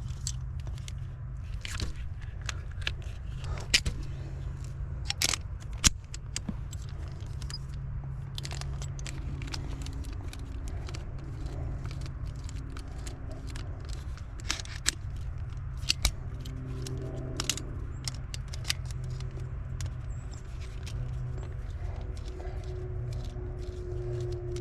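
Hands-on work with tools and metal parts: scattered sharp clicks, clinks and scrapes over a steady low hum. The loudest knocks come about four and six seconds in, and more around the middle.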